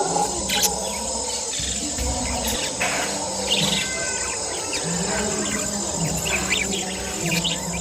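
Parrots giving short, scattered chirps over a steady, high-pitched insect trill.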